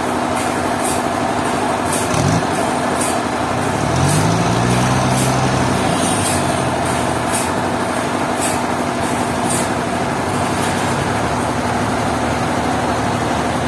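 A heavy engine runs steadily under load, its pitch rising briefly a little after two seconds and again around four seconds in before easing back down.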